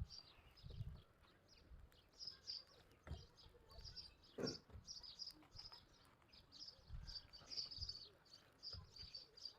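Faint chirping of small birds, many short high calls repeating, with a few soft low thumps underneath.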